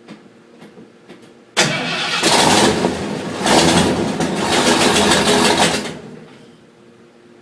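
1986 Ford F250 pickup engine cranked from cold, heard close up at the exhaust: a sudden loud start about a second and a half in, running in two swells for about four seconds, then dying away to quiet.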